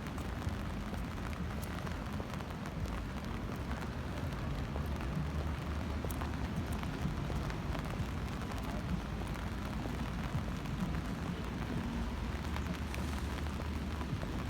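Steady rain noise, an even hiss with scattered faint patters and a low rumble underneath.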